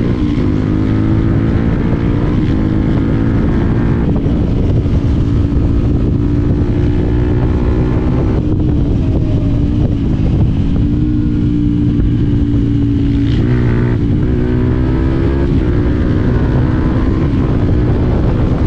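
Yamaha WR125X's single-cylinder four-stroke engine running under way at a steady pitch, with brief dips and shifts in pitch about four, eight and a half and thirteen and a half seconds in.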